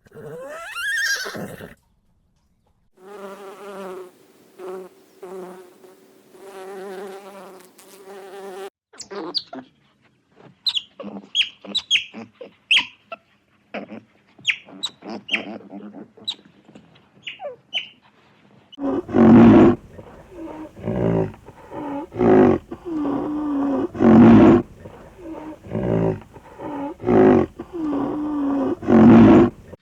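A string of separate animal calls: first a single rising whistle, then an insect-like buzzing drone in several bursts, then a run of short high chirps. From about two-thirds of the way in come loud, repeated roars, the loudest sound here.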